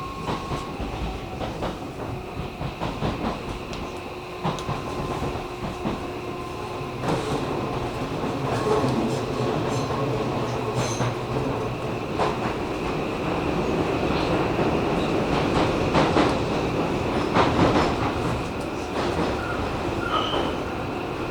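Hakone Tozan Railway electric train running on the rails, with clicks of the wheels over the track. The running grows louder about seven seconds in.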